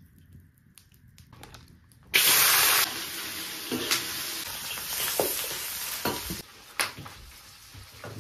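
Pieces of boiled cured pig's head hitting hot oil in a wok: a loud sizzle bursts on about two seconds in, settles into steady frying, and dies down after about six seconds. The spatula knocks against the wok as the meat is stirred.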